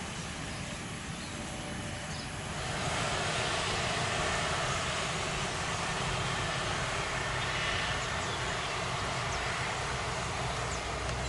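Jet airliner engine noise, a steady rush that grows louder about three seconds in and then holds.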